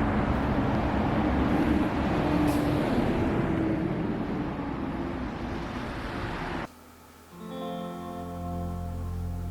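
An electric blender runs with a steady whir and cuts off abruptly about two-thirds of the way in. Soft guitar background music follows.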